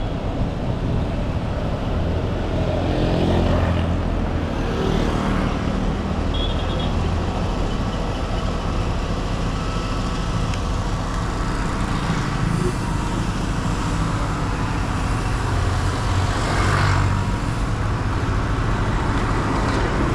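Street traffic: a steady rumble of engines, with several vehicles passing close, swelling and fading.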